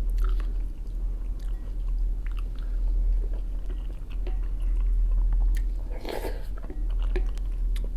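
Close-up chewing and biting of a mouthful of buckwheat salad with small wet mouth clicks, and a wooden spoon scooping in a glass bowl. A louder short mouth noise comes about six seconds in as a spoonful goes into the mouth, all over a steady low hum.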